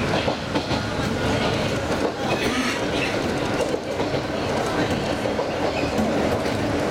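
Mizuma Railway electric train heard from inside the carriage, its wheels clattering over the rail joints over a steady running rumble. A wind chime hung in the car rings faintly now and then.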